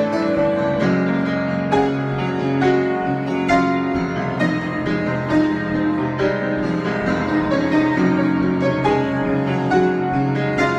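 Solo piano improvisation: many notes and held chords overlapping, with new notes coming in every fraction of a second.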